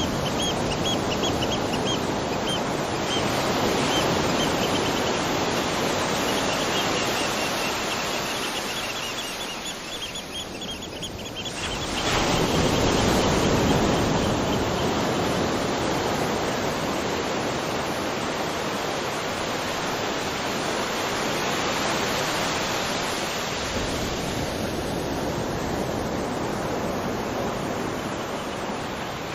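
Waterfall rushing steadily, a dense, even roar of falling water. A rapid string of high chirps sounds over it in the first third. The water thins briefly, then swells suddenly about twelve seconds in.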